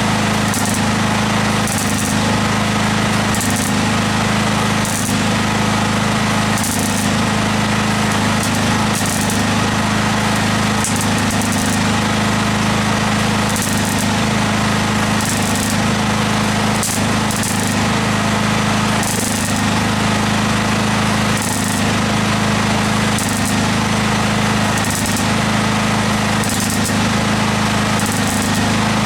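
Electric welder welding car body steel in short repeated runs, roughly one every second or so, over a steady electrical hum.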